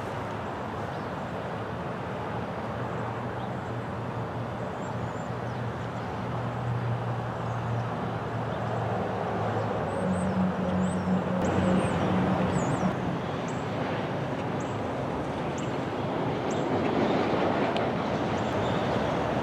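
Train drawing near: steady rumble with a low diesel engine hum, gradually getting louder, with short high squeaks or chirps from about halfway through.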